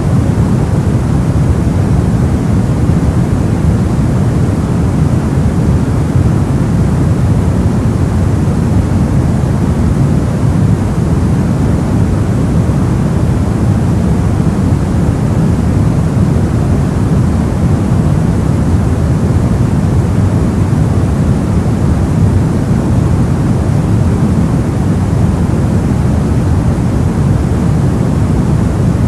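Soft white noise for sleep: a steady, even hiss weighted toward the low end, deep and rumbly rather than bright, with no changes or events.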